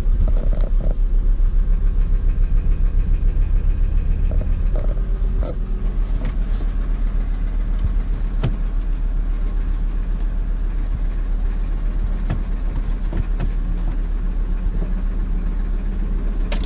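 Volkswagen T4's 2.5-litre five-cylinder AAF petrol engine running with a knock that the owner has not traced by unplugging the spark plug suppressor caps one by one. The engine beats in even pulses for the first five seconds or so, then runs on a little quieter, with a few sharp ticks.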